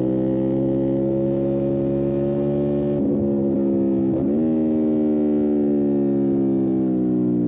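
Motorcycle engine running under load with a slowly rising note, a brief break and pitch change about three to four seconds in, consistent with a gear change, then its note slowly falling as the bike eases off.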